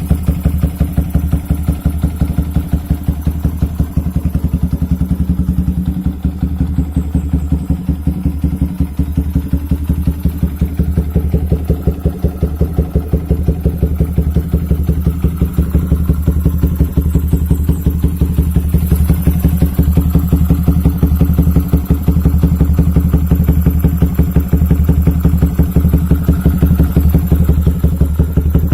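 Yamaha Vixion's single-cylinder four-stroke engine idling through an aftermarket KOU slip-on exhaust, a steady run of fast, even exhaust pulses.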